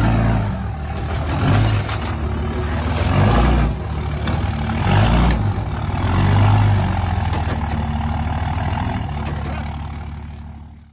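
Heavy truck engine running under load, the revs swelling and easing several times.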